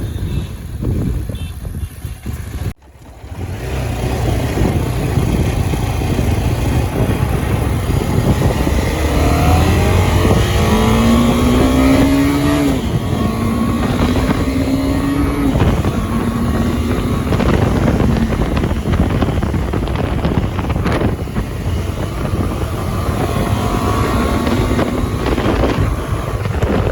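KTM 390 single-cylinder motorcycle engine under way, its pitch rising as it pulls and dropping back at each gear change, with a brief gap about three seconds in.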